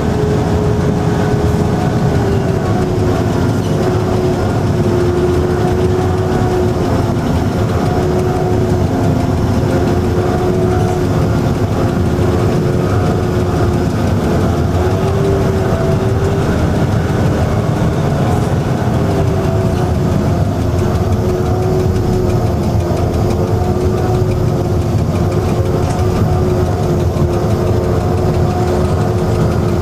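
Diesel locomotive engine running steadily at idle, a loud low rumble with a droning tone that shifts slightly in pitch a few times.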